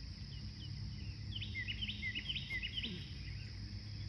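A songbird gives a quick run of short chirps from about a second in to about three seconds in. Underneath is a steady high-pitched insect drone and a low background rumble.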